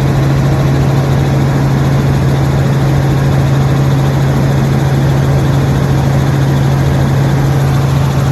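Helicopter in flight: a steady, unchanging drone of engine and rotors, with a strong low hum over a rushing noise.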